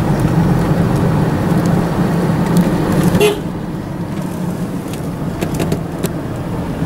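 Vehicle engine and road noise heard inside the cab while climbing a winding mountain road, a steady low hum that drops a little in level a bit over three seconds in.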